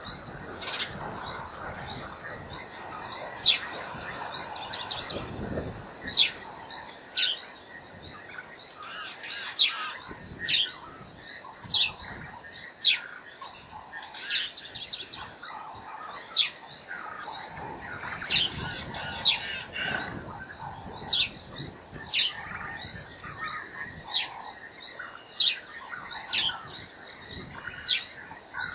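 A bird calling over and over: short, sharp, high notes, each a quick downward slide, coming about once every second or so over a faint, steady background.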